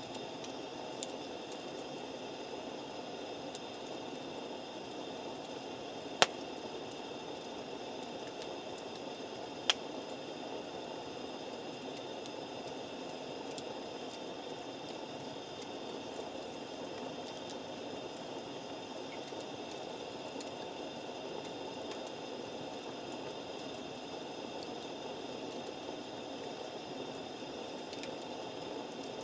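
Campfire burning with a steady low hiss, broken by two sharp pops of the burning wood about six and ten seconds in.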